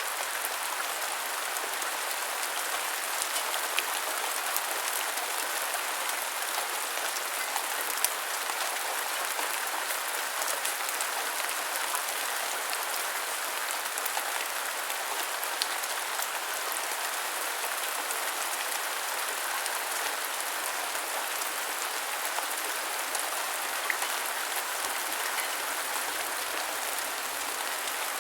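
Steady rain falling, an even hiss with a few louder single drop ticks now and then.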